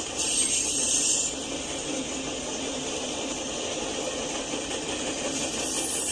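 Freight train rolling past: a steady noise of wheels on the rails, with a higher hiss that swells briefly about a second in and again near the end.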